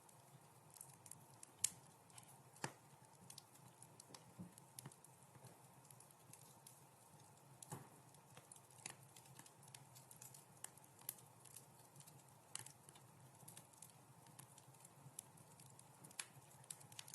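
Wood fire crackling in a fireplace: quiet, irregular sharp pops and snaps over a soft low hiss, with two louder pops in the first three seconds.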